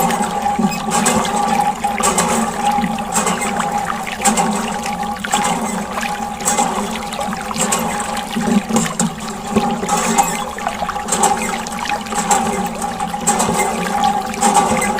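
Water running and splashing steadily, over a steady hum.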